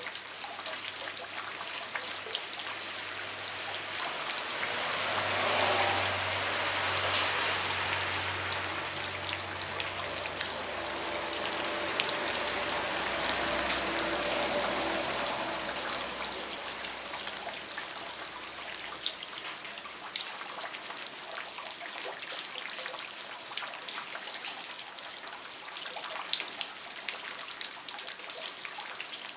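Rain falling steadily at night, with many separate drops and drips ticking on surfaces. A low rumble swells and fades in the middle.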